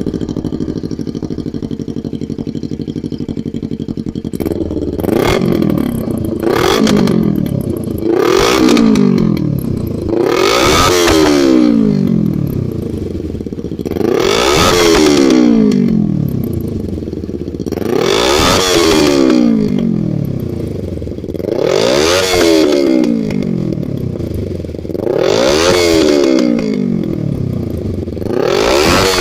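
Kawasaki Ninja 250R's parallel-twin engine, on a tuned exhaust set up to blow fire, idling steadily and then revved repeatedly: two quick blips about five seconds in, followed by about seven longer revs every three to four seconds, each rising and falling back to idle.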